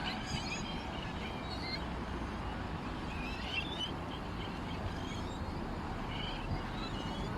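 Small songbirds chirping and twittering in short, scattered phrases over a steady low background noise.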